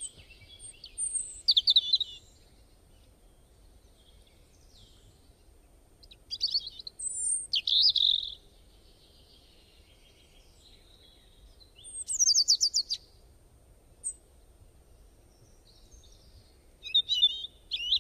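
Bird singing in short, high-pitched phrases, each a quick run of chirps and trills, coming four times about every five seconds.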